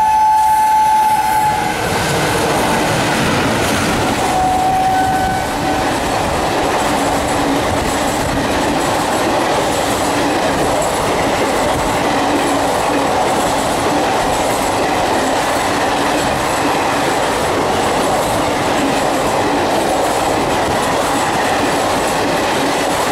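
Indian Railways locomotive horn sounding and cutting off about a second and a half in, then a second, shorter horn note around five seconds in. A passing train's coaches keep up a steady rush and rattle over the rails.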